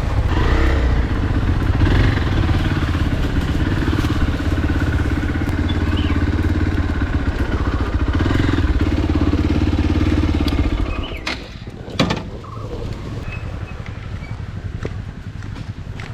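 Motorcycle engine running steadily under way, then dropping away about eleven seconds in, followed by a sharp knock.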